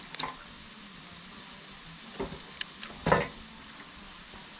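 Wood campfire burning with a steady hiss, broken by a few sharp crackles and pops, the loudest about three seconds in.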